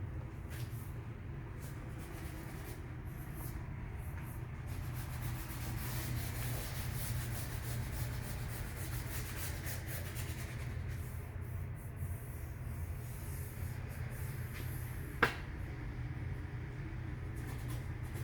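Steady sanding of high-build epoxy primer on a car body panel, knocking down the orange peel. One sharp tap sounds about fifteen seconds in.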